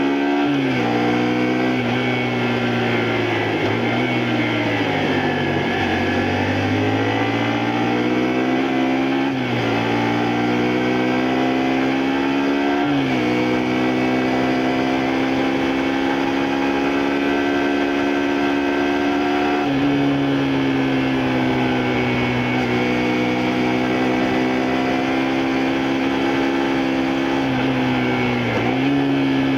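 Honda Varadero 125's small V-twin four-stroke engine heard from the saddle while riding. The revs fall and climb with sharp jumps in pitch at gear changes, then hold nearly steady at cruising speed for a long stretch, with a dip near the end.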